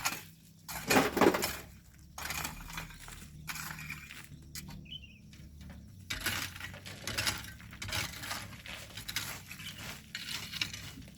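Hand tools scraping and clinking through gravelly volcanic sand and stones in irregular strokes, with a louder crunch about a second in.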